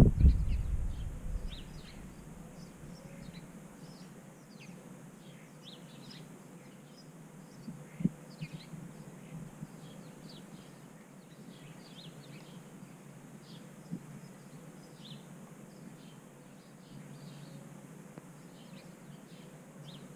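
Small backyard songbirds calling, many short, high chirps scattered throughout, with a loud knock at the start and a couple of softer knocks later.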